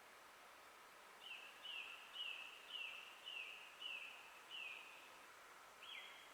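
A forest bird singing a run of about seven repeated down-slurred notes, roughly two a second, starting about a second in. A second series of sharper down-slurred notes begins near the end. Faint, over a soft steady background hiss.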